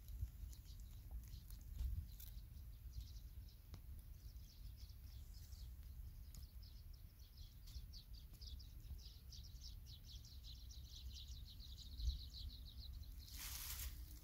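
A bird's rapid, high chirping trill, faint, running for several seconds and drifting slightly down in pitch, over a steady low rumble; a short rustle near the end.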